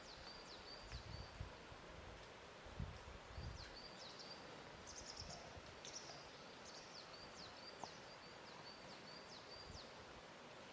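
Faint lake-shore ambience: a soft steady hiss with a few low lapping thuds of water in the first few seconds, then a small bird calling over and over with high, thin chirps, about two a second.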